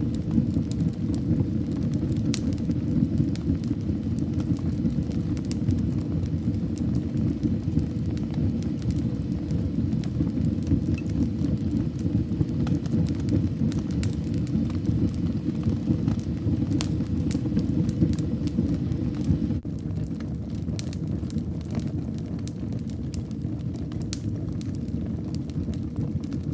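Wood fire burning in a fireplace: a steady low rumble of flames with scattered sharp crackles and pops. The rumble drops a little about twenty seconds in.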